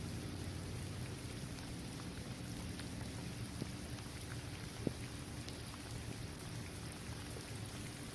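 Steady rain falling on a basketball court, trees and grass: an even hiss with scattered single drops ticking, one sharper drop about five seconds in.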